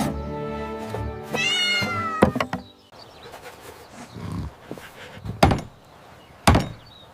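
Gentle background music stops about two and a half seconds in, with a cat's meow just before it ends. After that come a few sharp single knocks of a hammer on wood, spaced a second or more apart.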